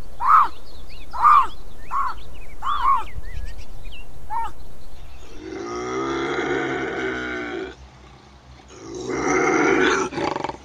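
A cougar (puma) calling: a run of about seven short, bird-like chirps, then two long, harsh, rasping calls of about two seconds each, the second louder.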